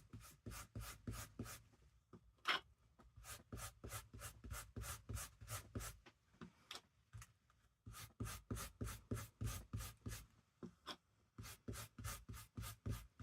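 Ink being rubbed through a stencil onto fabric with a stenciling tool: quick rhythmic scrubbing strokes about three or four a second, broken by two short pauses, with one sharp tap about two and a half seconds in.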